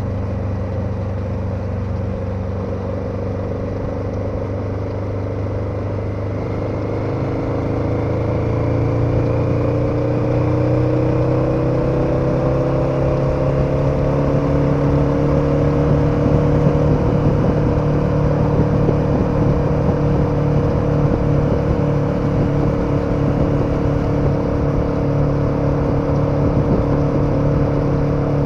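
KTM 1290 Super Adventure's V-twin engine running under way, with road and wind noise. About seven seconds in, the engine note climbs steadily as the bike accelerates, then settles into an even higher cruise.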